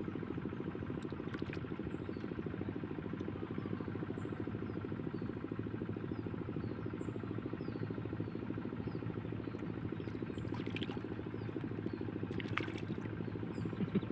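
A steady low engine drone with a fast, even pulse, with faint high chirps repeating over it and a few light clicks near the end.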